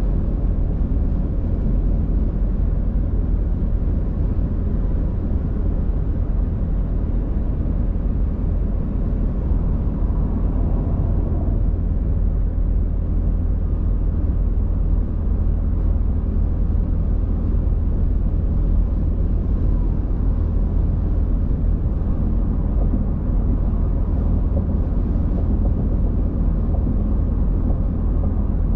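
Steady low rumble of a car driving: road and engine noise holding level throughout.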